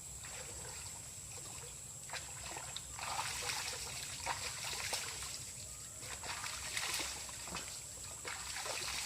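Spring water trickling and splashing, growing louder and busier from about three seconds in until near the end.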